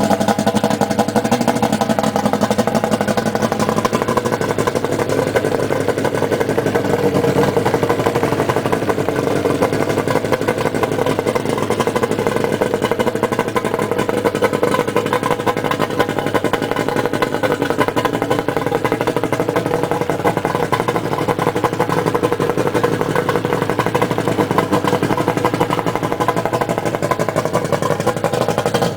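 1987 Johnson 200 hp two-stroke V6 outboard motor running at a steady speed.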